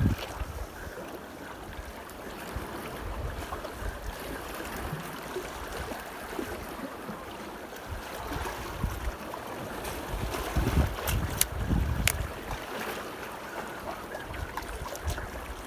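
Strong wind buffeting the microphone in gusts over the steady wash of waves against a breakwater, with a few sharp clicks about two-thirds of the way through.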